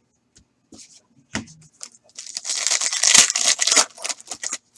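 Sports trading cards and their plastic wrapping being handled: a few light clicks, then a dense rustle lasting about two and a half seconds.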